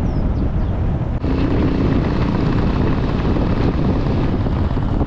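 Heavy wind rumble on the microphone with a steady engine hum underneath, from a moving vehicle. There is a brief break about a second in.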